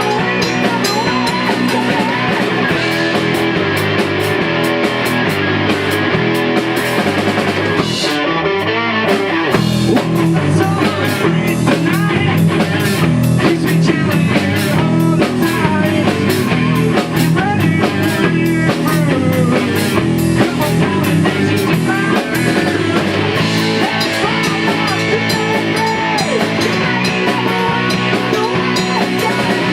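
Rock band playing: guitar and drum kit. There is a short break in the low end about eight seconds in, before the full band comes back in.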